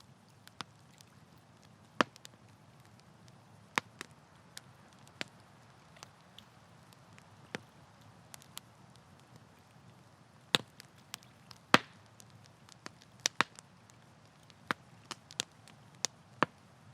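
Wood fire crackling: irregular sharp pops and snaps from the burning logs, a few much louder than the rest, over a faint steady hiss.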